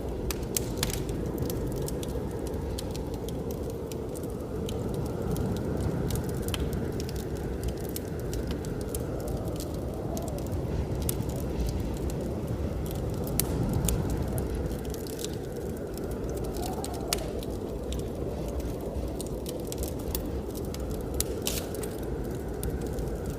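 Wood fire in a fireplace crackling, with scattered sharp pops, over a steady low rush of blizzard wind.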